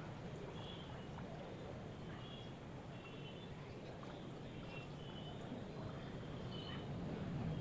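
Small birds chirping now and then in short high notes over a steady low background rumble.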